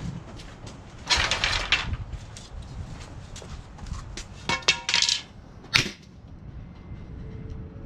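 Stainless steel fire pit parts being handled: a burst of rustling about a second in, then metal clinking with a short ring, and a single sharp knock near the end.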